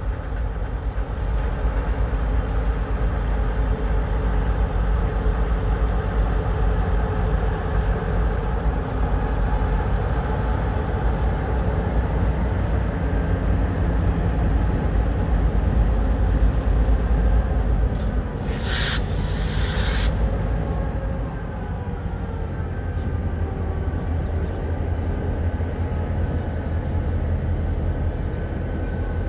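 Diesel freight locomotives running with a steady low rumble while switching cars, with a short loud hiss of air about 19 seconds in.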